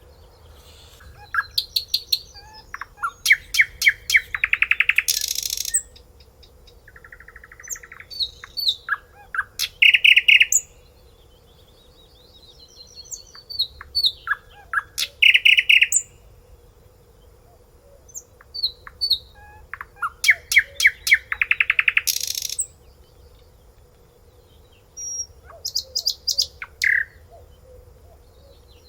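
A songbird singing in separate phrases of rapid repeated notes, trills and clear whistles, five phrases with pauses of a few seconds between them.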